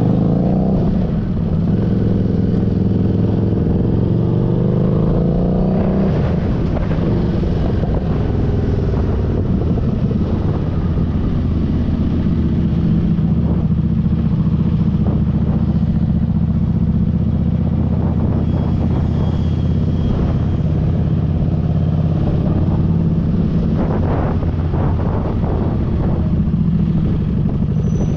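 Motorcycle engine running under way, rising in pitch twice in the first few seconds as it accelerates, then holding a steady cruising note.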